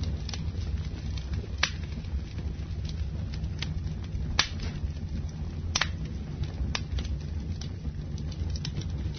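Wood campfire burning: a steady low rumble of the flames with sharp, irregular crackles and pops from the burning wood. The loudest pops come a little after four seconds in and just before six seconds in.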